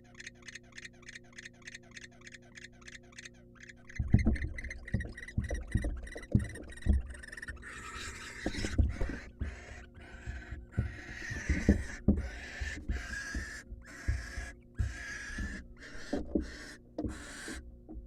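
Barn owls in a nest box: a fast run of short clicking calls, about five a second, then from about four seconds in loud thumps and scuffles mixed with repeated hissing calls.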